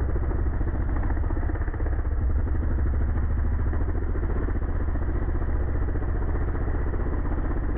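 Off-road vehicle engine, from a quad or a dirt bike, idling steadily.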